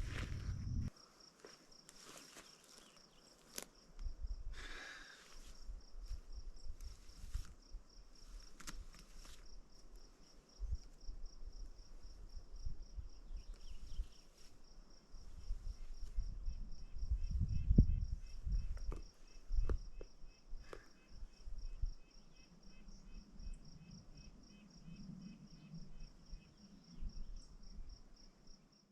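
An insect, cricket-like, chirping in a steady, even pulse, with a second, lower pulsing call joining in for a while midway. Gusts of wind rumble on the microphone.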